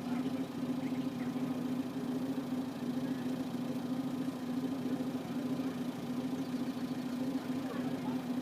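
A vehicle engine running steadily at a constant speed, a continuous even hum.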